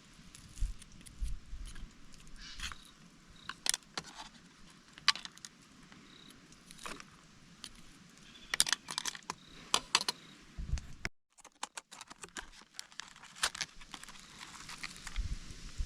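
Scattered light clinks and taps of small hard objects being handled, with a brief gap about eleven seconds in.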